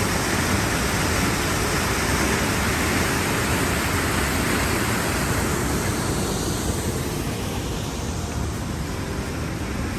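Sol Duc Falls, a waterfall, rushing: a steady, loud wash of falling water. It eases slightly after about six seconds in.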